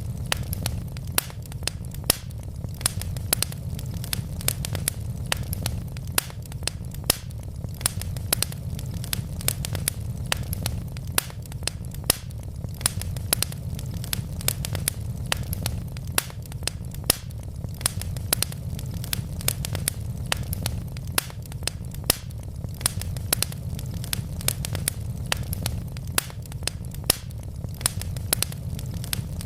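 Wood logs burning in a fireplace, crackling with many sharp, irregular pops over a steady low rumble of the flames.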